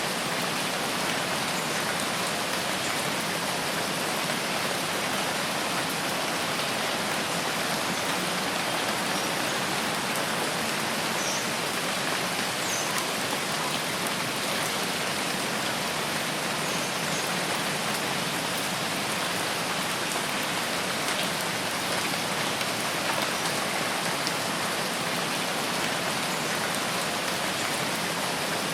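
Steady rain falling, an even, unbroken hiss of many drops with no let-up.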